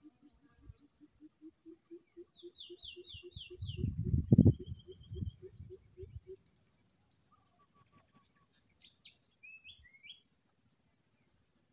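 Birds calling: a low note repeated about three times a second through the first half, a quick run of high descending chirps and a short trill, then a few more chirps near the end, over a faint steady high-pitched tone. A low rumble swells up around the middle and is the loudest sound.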